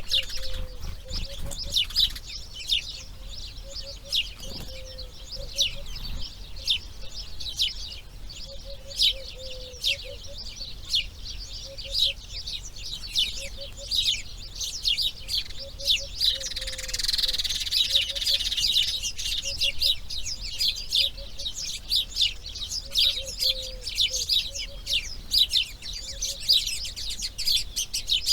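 A chorus of wild birds: dense, rapid high chirps throughout, with a lower call of short notes repeating underneath. A brief rushing noise comes about two-thirds of the way through.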